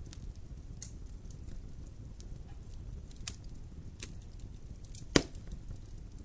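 Wood fire in a fireplace crackling over a low steady rumble, with scattered sharp pops and one loud pop about five seconds in.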